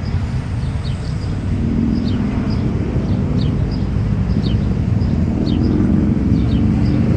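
Motorcycle engine running steadily, its low sound growing stronger about a second and a half in. Short, high, falling chirps repeat over it throughout.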